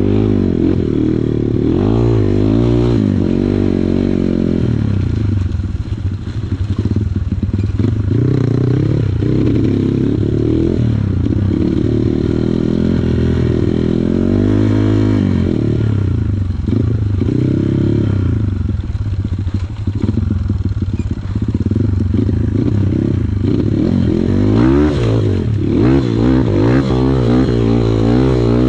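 Kawasaki KLX140 trail bike's single-cylinder four-stroke engine running while being ridden, its pitch repeatedly rising and falling as the throttle opens and closes.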